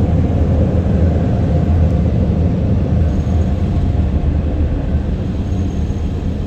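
Car wash air dryers running, heard from inside the car: a loud, steady rush and rumble of blown air, easing slightly toward the end.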